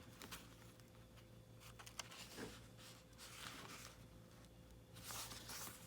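Near silence with faint rustles and a few light taps of paper being lined up by hand.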